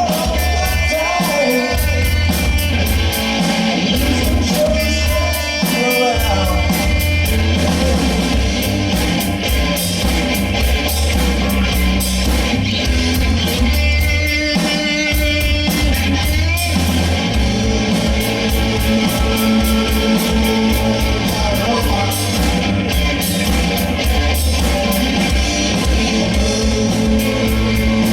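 Live rock band playing, with electric guitar, a steady bass and drum beat and a singing voice.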